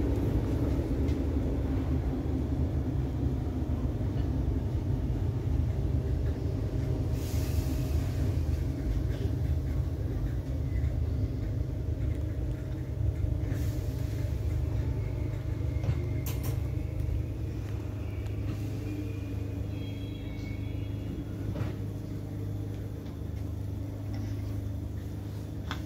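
Electric passenger train heard from inside the carriage: a steady low rumble of the train running, slowly getting quieter, with a brief hiss about seven seconds in and a few light clicks.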